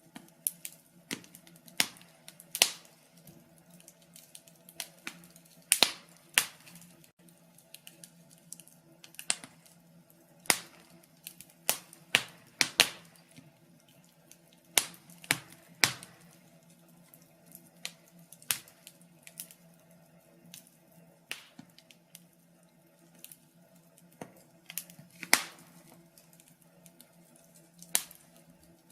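Wood fire crackling in a fireplace: irregular sharp pops and snaps, several bunched together at times, over a faint steady low hum.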